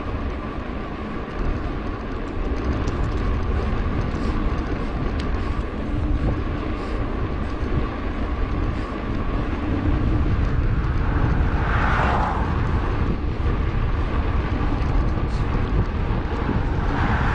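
Wind and riding noise on an action camera's microphone while a mountain bike rolls along the road: a steady low rumble with a faint steady hum above it. Two brief swells of higher-pitched noise come about twelve seconds in and near the end.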